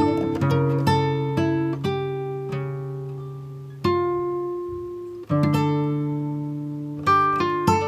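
Background music of plucked acoustic guitar, single notes and chords ringing out and fading between plucks, with fresh chords struck near the middle.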